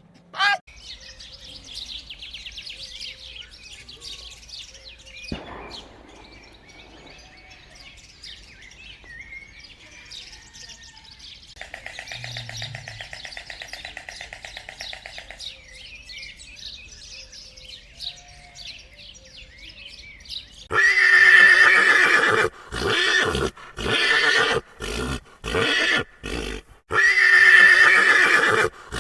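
Faint bird chirping, then about two-thirds of the way in loud animal calls begin: a long call, several short ones, and another long call near the end.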